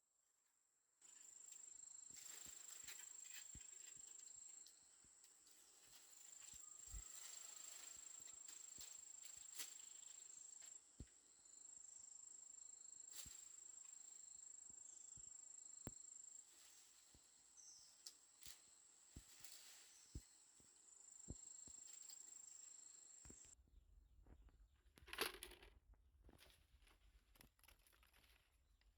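Faint, steady high-pitched insect buzz that starts and stops in stretches of several seconds, with scattered small clicks and crackles.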